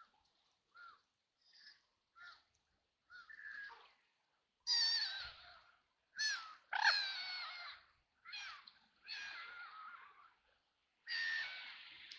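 Ducks quacking: a few short, soft calls at first, then louder, harsh quacks in a run of separate calls from about five seconds in.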